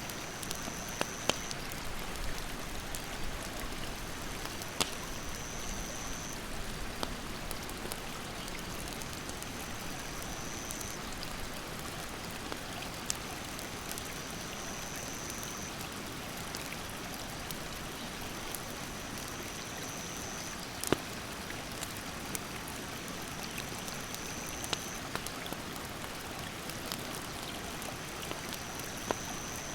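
A mountain stream rushes steadily, with the sharp pops and crackles of a wood campfire scattered through it; the loudest pop comes about 21 s in. A high, steady call recurs every four to five seconds, each lasting a second or so.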